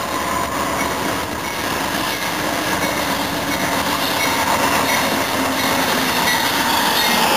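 Amtrak passenger train led by a GE Genesis diesel locomotive approaching and passing along the platform, the noise of its engine and wheels on the rails growing steadily louder as it comes close.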